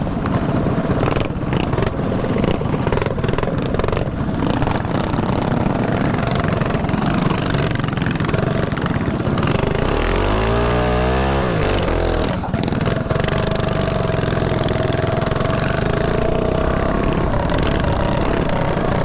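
Mini bike engines running during a ride, under heavy wind noise on a helmet-mounted microphone. About ten seconds in, an engine note sweeps sharply in pitch, then settles into a steadier drone.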